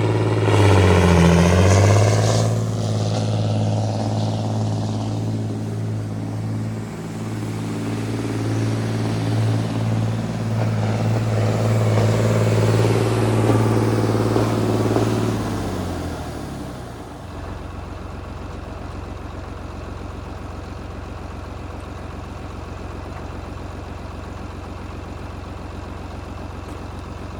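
John Deere 8220 tractor's six-cylinder diesel engine running under throttle as the tractor is driven forward and backward, its note dipping briefly about a second in. Around 17 seconds in the engine drops back to a lower, steady idle.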